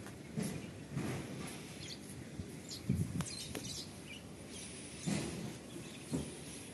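Outdoor background with faint bird chirps, over a few short soft thumps and rustles; the strongest thump is about three seconds in.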